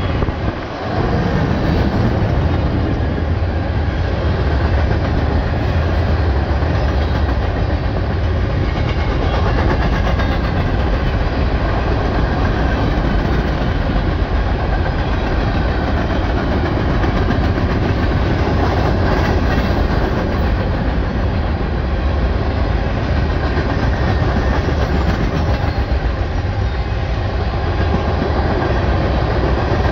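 A CSX freight train rolling past, its cars rumbling and clattering steadily over the rails.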